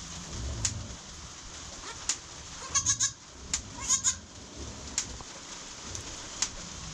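Newborn British Guernsey goat kid bleating: two short, high, wavering cries about a second apart near the middle, with a few sharp ticks here and there.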